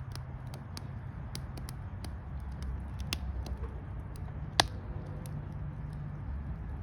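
Campfire crackling: irregular sharp pops and snaps, with one louder pop a little past halfway, over a steady low rumble.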